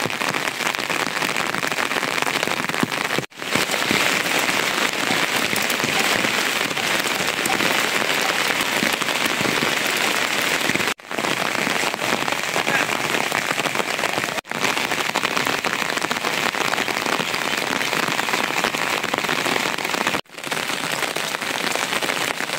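Steady rain falling, a dense even hiss that cuts out briefly a few times.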